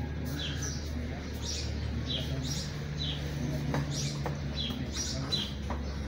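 A small bird chirping over and over, short high falling notes about twice a second.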